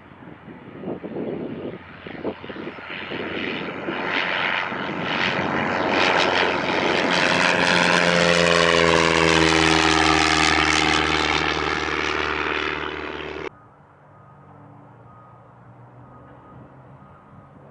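Propeller airplane passing close by, its engine getting louder as it approaches and its tone dropping in pitch as it goes past. The sound cuts off suddenly about thirteen seconds in, leaving only a faint background hum.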